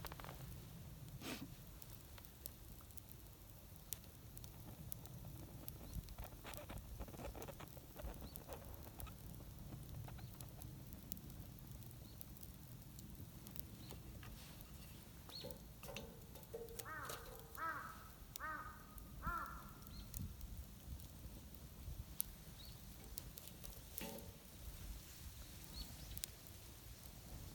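Faint scattered crackles and ticks over a low rumble, typical of a wood fire burning in a homemade iron fire pit. About two-thirds of the way through, a bird calls about five times in quick succession.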